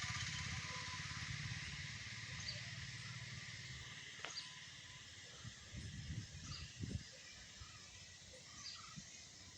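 Outdoor ambience with a steady hiss and scattered short bird chirps. A passing vehicle's engine fades away over the first few seconds, and a few low thumps come around the middle.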